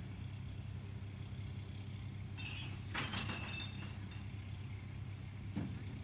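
A vehicle engine idling with a steady low hum, with a brief high squeal and hiss about two and a half to three and a half seconds in and a short knock near the end.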